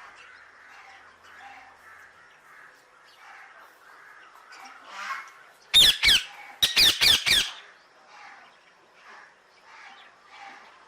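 Parrot squawking: a quick run of about six loud, harsh squawks around the middle, over softer repeated calls throughout.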